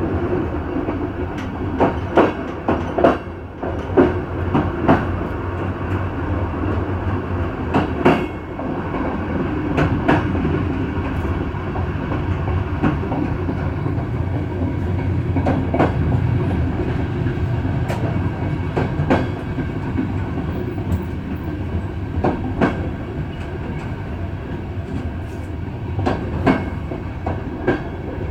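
Passenger train running along the track, heard from its rear: a steady wheel rumble with sharp clicks over rail joints every one to three seconds, some in quick pairs.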